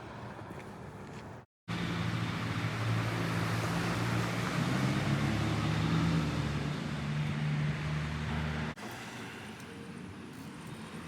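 Motor vehicle running: a steady low hum with noise above it. It starts abruptly about two seconds in and cuts off about nine seconds in, with only faint hiss before and after.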